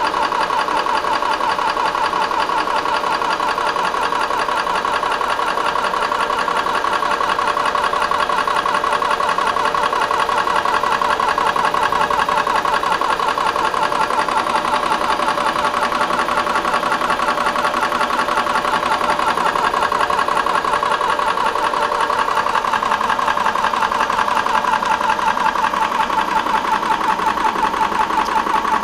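Benjamin Traveler portable PCP air compressor running steadily with a fast, even pumping rattle, building pressure while filling an air rifle.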